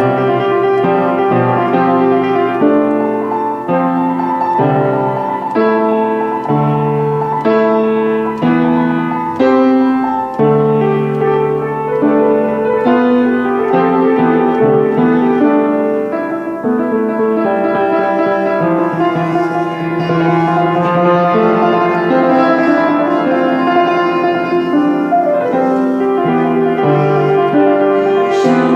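Solo piano music, slow and steady, with notes held and changing about every half second to second.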